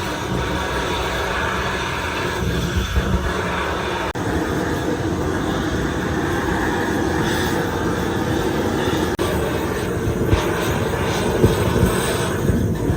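Metalworking shop machinery running with a steady, noisy drone that breaks off for an instant twice.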